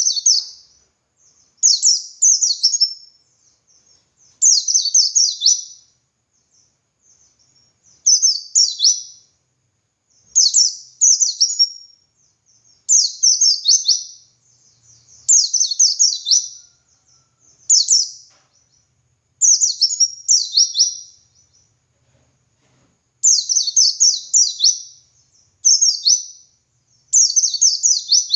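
White-eye (pleci) singing in repeated rapid, high-pitched phrases of quick down-sweeping notes, each about a second long, with short pauses between.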